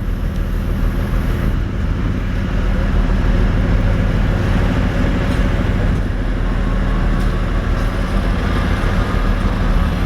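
АЧ2 diesel railcar running steadily, its engine giving a low hum that grows slightly louder a couple of seconds in.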